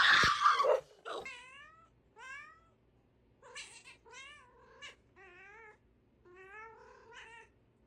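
A domestic cat meowing repeatedly, about six separate calls a second or so apart, some falling in pitch and some wavering. A louder sound comes right at the start, before the meows.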